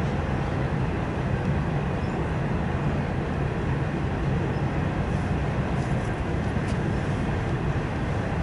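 CSX double-stack intermodal freight train rolling past, a steady low rumble of steel wheels on rail from the passing container well cars, with a few faint high ticks about six to seven seconds in.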